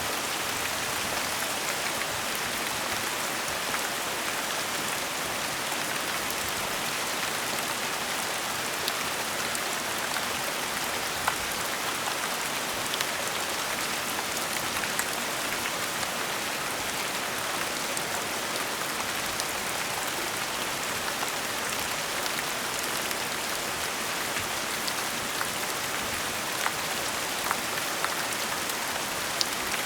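Steady gentle rain: a continuous hiss of falling rain with many small, distinct drop ticks on a surface scattered through it.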